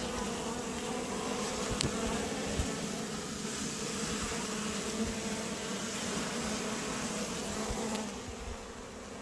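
Steady buzzing of a large, agitated honey bee swarm flying around a roof cavity as its comb is being pulled out, a dense hum with a few faint knocks.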